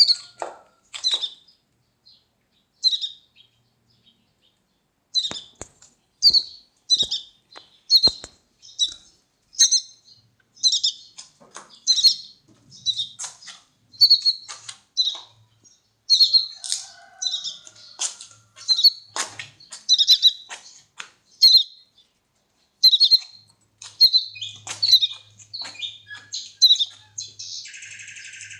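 Baby bird chirping over and over in short, high chirps, about one to two a second, with a pause of a couple of seconds a few seconds in.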